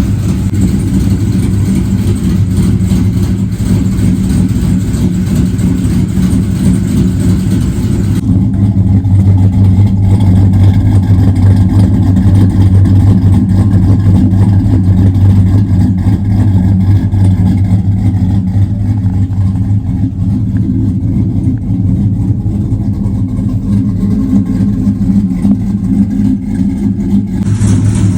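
Motor vehicle engine running with a steady low drone. About eight seconds in, the higher-pitched sounds drop away and the low drone gets louder.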